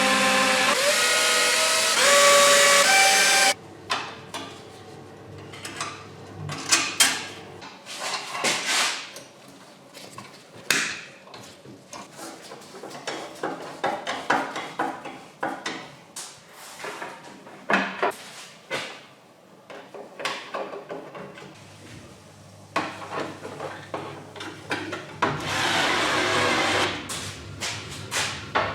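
A small power tool, such as an electric screwdriver or drill, runs in two short spells with a rising whine. It is followed by scattered clicks, clinks and knocks of metal parts and hand tools as a pocket bike is assembled. Near the end comes a few seconds of steadier, noisier work sound.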